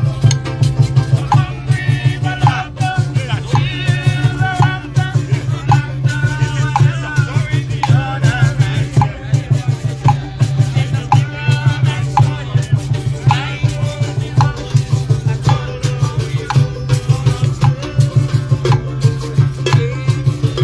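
Lively live music with a shaker rattling over a quick, even beat and a melody line, and a steady low hum underneath.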